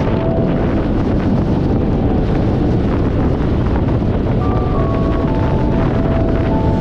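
Car driving at road speed: a steady rumble of road and wind noise, with a faint melody of music underneath in the second half.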